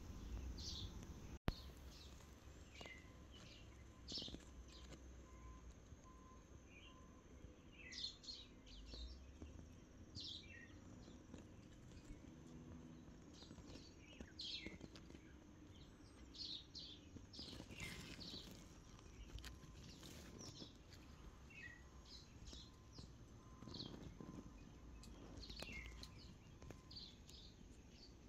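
Faint chirps of small birds, short calls scattered through the whole stretch, over low rumbling outdoor background noise. A single sharp click sounds about a second and a half in.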